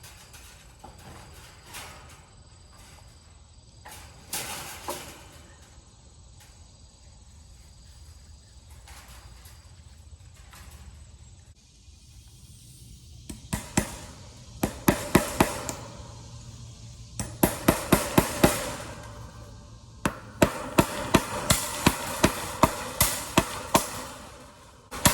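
Hammer striking in quick runs of about four to five blows a second, starting about halfway through after a stretch of faint, scattered knocks.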